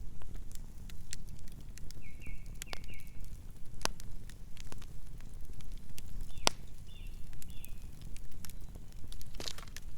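Campfire burning: a steady low rumble of flames with scattered sharp crackles and pops of burning wood, the loudest pop about six and a half seconds in. Two brief runs of faint high chirps sound over it, early and past the middle.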